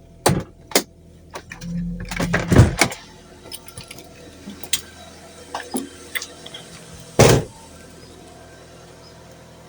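Car engine idling steadily after being started, with a few sharp knocks and clatters over it, the loudest about two and a half seconds in and another about seven seconds in.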